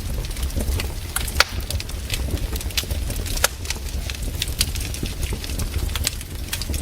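Wood campfire crackling, with irregular sharp snaps and pops over a steady low rumble. Two louder pops stand out, about one and a half and three and a half seconds in.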